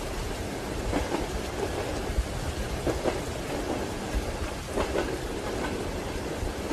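Steady rain on a train window, with a low rumble underneath. Over it comes the rhythmic clickety-clack of train wheels over rail joints: pairs of knocks about every two seconds.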